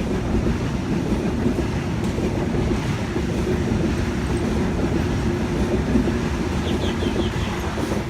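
Passenger train running past a station platform: a steady rumble with wheels clacking over the rail joints.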